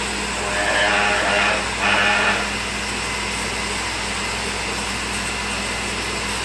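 Mirka Deros electric random orbital sander running on a cast-iron band saw table, with its vacuum dust extraction running steadily. Two brief, louder pitched squeals come about a second in and two seconds in.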